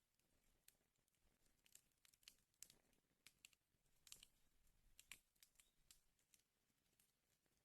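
Faint wood fire crackling: irregular sharp snaps and pops over a soft hiss, with a few louder snaps near the middle.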